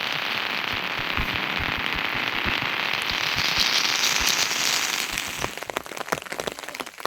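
Rain falling steadily as a dense hiss; about five seconds in the hiss thins and many separate drops and drips stand out as sharp clicks.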